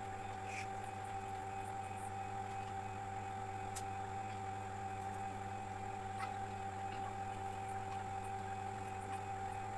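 Steady electrical hum with a constant high-pitched tone, broken only by a few faint clicks.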